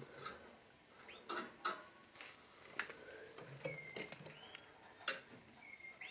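Red canaries giving short whistled call notes that glide in pitch, about three of them, amid frequent light clicks and taps.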